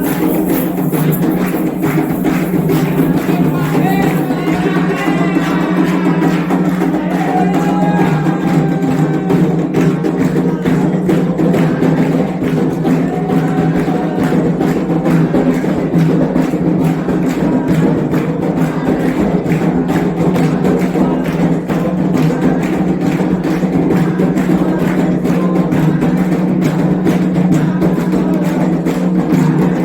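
Candomblé ritual drumming: atabaque hand drums and a struck agogô bell playing a fast, steady rhythm, with voices singing over it, clearest in the first third.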